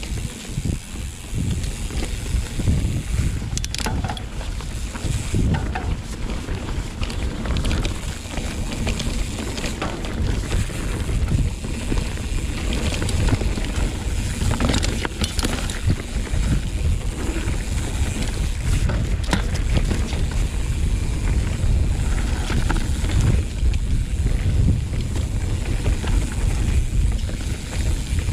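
Mountain bike descending a dirt trail at speed: wind buffeting the camera microphone over the rumble of tyres on the ground. Short rattles and clacks come from the bike's chain and frame over the bumps.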